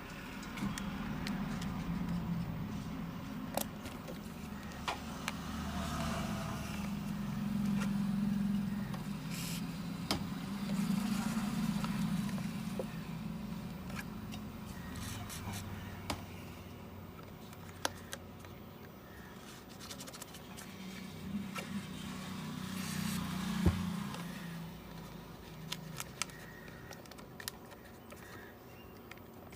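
A low rumble that swells and fades several times, with scattered small clicks and taps throughout.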